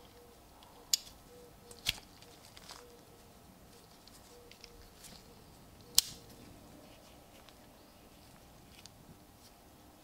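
Sharp metallic clicks from handling a restored sailor's pocket knife: three distinct clicks about a second, two seconds and six seconds in, the last the loudest, with fainter taps between them.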